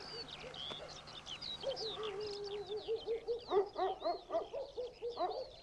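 Birdsong: many high chirps and trills, with a lower bird call that holds one note for about a second, then repeats in quick rising-and-falling notes for nearly two seconds.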